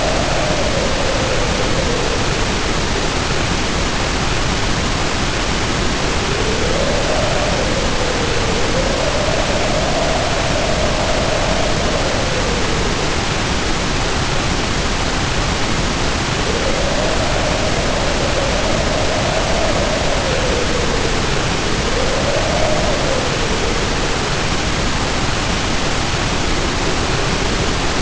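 Heavy rain pouring steadily under wind howling in slow swells: a whistling moan that rises and falls in pitch every few seconds. The howl drops away briefly a couple of times.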